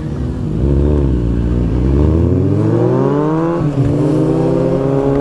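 Kawasaki Z800's inline-four engine with its exhaust dB killer removed, accelerating: the note dips briefly, then climbs steadily, drops at an upshift a little past halfway, and pulls on again in the next gear.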